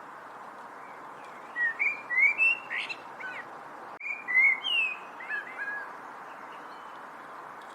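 A songbird singing two short phrases of quick slurred whistled notes, the second starting about half a second after the first ends, over a steady background hiss.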